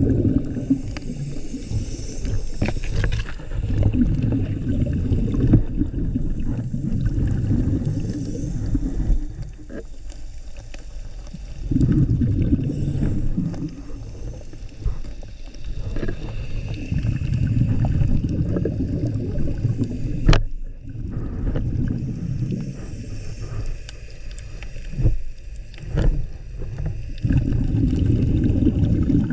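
Scuba diver breathing through a regulator underwater: bursts of exhaled bubbles rumbling past the camera housing every few seconds, with quieter gaps between breaths. A single sharp click about twenty seconds in.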